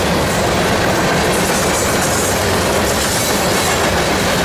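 CSX freight train passing, its wheels rolling on the rails in a loud, steady rolling noise.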